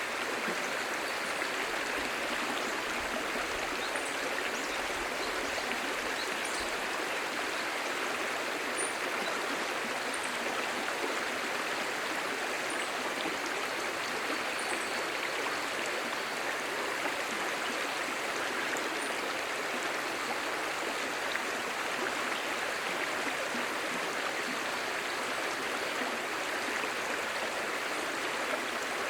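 A clear stream babbling steadily, an even rush of flowing water with no pauses.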